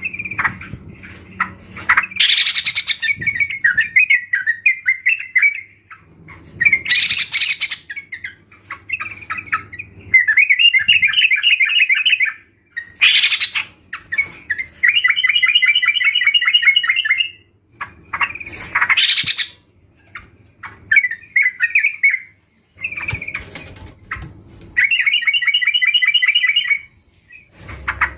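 A group of yellow-vented bulbuls singing: repeated bubbling, chattering phrases of quick notes, broken every few seconds by a loud sweeping call.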